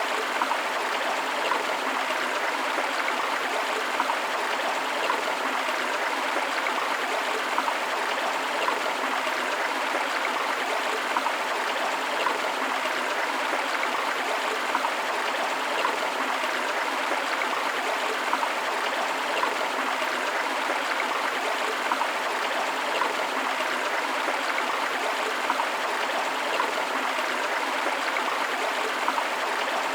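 Flowing river water: a steady rush with small splashes and gurgles throughout.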